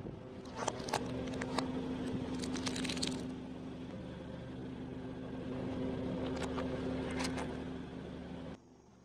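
A machine running with a steady, even hum, with scattered small cracks and clicks over it. It cuts off suddenly near the end.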